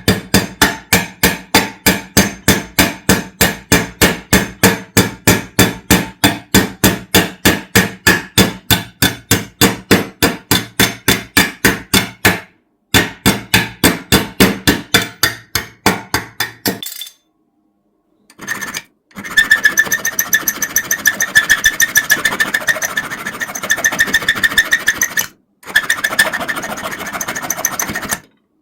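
A hammer tapping a metal toy car body in a steady rhythm, about three to four blows a second, stopping briefly once midway. After a pause of about two seconds it gives way to a quicker rasping rub, like filing or sanding the metal.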